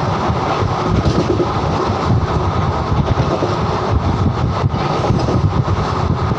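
Moving train running at speed: a steady, loud rumble with no break.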